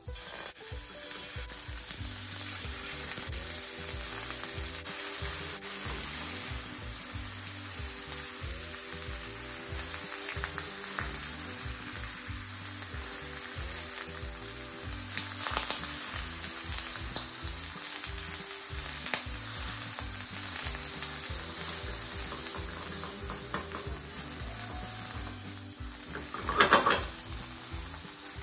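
Slices of thick deep-fried tofu (atsuage) and sliced onion sizzling steadily as they fry in sesame oil in a frying pan, with a brief louder scrape of tongs in the pan near the end.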